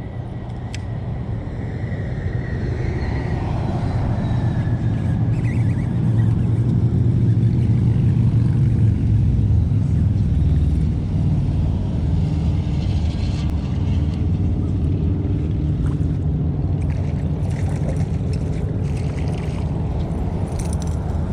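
A boat's outboard motor running under way with a steady low rumble. It builds over the first several seconds, then holds steady.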